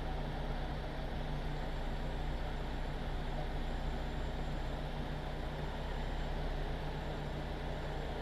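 Vehicle engine idling steadily, a constant low hum heard close from the front of the vehicle.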